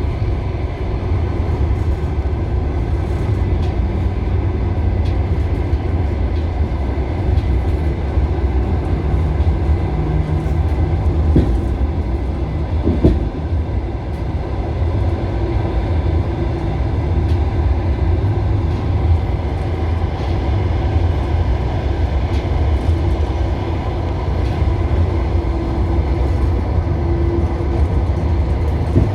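Passenger train carriage running along the track, heard from inside: a steady low rumble of wheels on rails with occasional clicks and a sharp knock near the middle.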